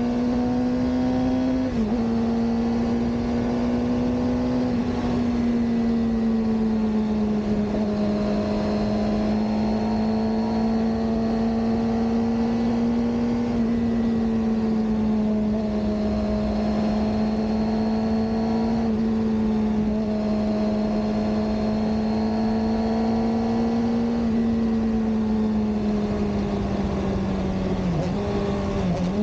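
Suzuki GSX-R600 K7 inline-four engine running at steady, fairly high revs under way, its pitch holding nearly constant with slight rises and falls. Near the end the pitch dips briefly a couple of times as the throttle is eased.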